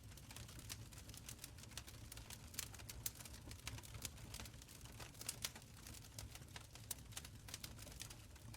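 Wood fire in a stone fireplace crackling, with irregular sharp pops and snaps over a low rumble of the flames.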